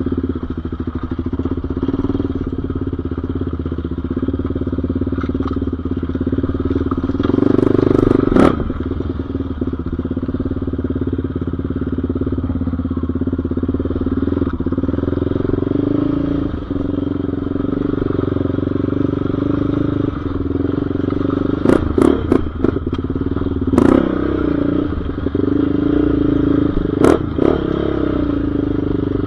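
Off-road engine of a dirt bike or quad running steadily at riding revs, its pitch rising and falling a little as the throttle changes. A few sharp knocks and clatters cut through it, loudest about eight seconds in and several times in the last third.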